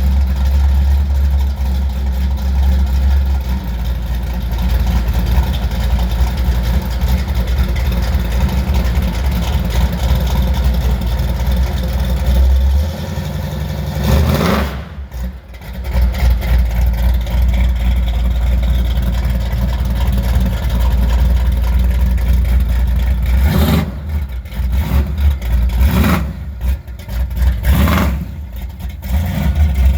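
Chevrolet Monte Carlo G-body engine fitted with a big camshaft, idling, revved once about halfway through and blipped several times in quick succession near the end.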